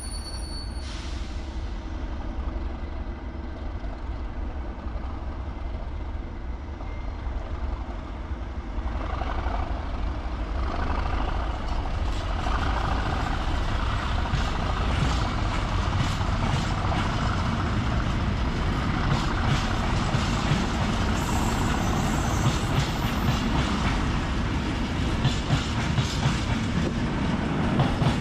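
A train of empty timber wagons rolling past with a steady rumble that grows louder about nine seconds in. Many sharp clicks and rattles come in over it as the wheels run over rail joints.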